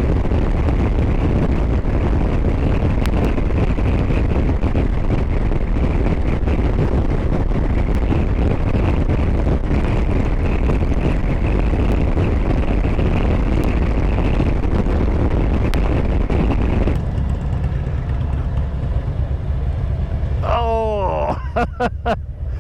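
Harley-Davidson Road Glide V-twin riding at highway speed, its engine and rushing wind merged into one steady dense noise; it eases off and quietens about three-quarters of the way through. Near the end comes a short sliding, wavering pitched sound.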